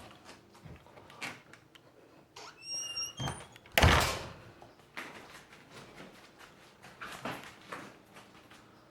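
Scattered knocks and clunks of something being handled, with a brief high squeak about three seconds in and a loud thump just after.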